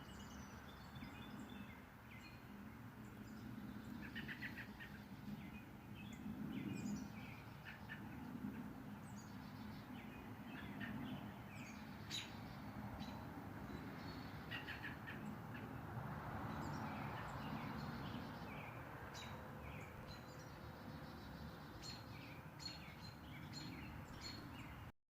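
Small birds chirping and calling in short, scattered notes over a low, steady background rumble.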